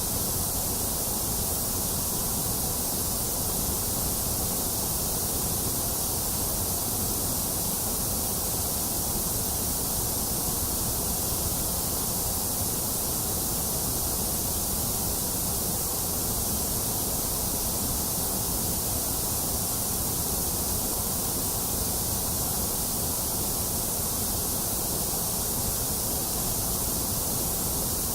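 Steady, unchanging white noise: an even hiss, brightest in the treble, with no breaks.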